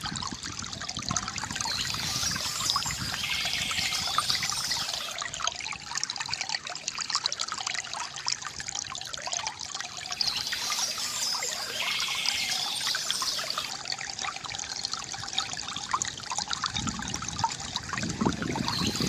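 Water trickling and splashing steadily from a bamboo fountain spout, with a fuller gush near the start and near the end. Bursts of birds chirping come and go about every eight or nine seconds.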